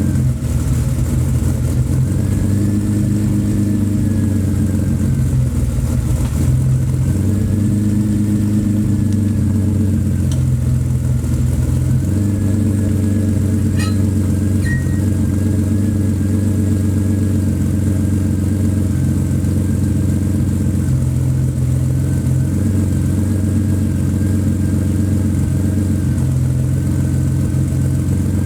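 BMW 850 (E31) V12 engine idling steadily while it warms up after a cold start, with a faint whine riding over the idle.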